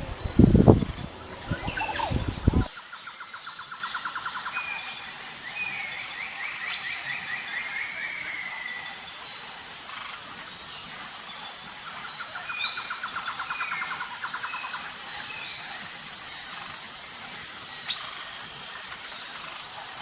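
Wildlife ambience: birds calling and chirping over a steady high insect drone, with two spells of rapid pulsed trills. It follows a few loud low sounds at the start that cut off abruptly about two and a half seconds in.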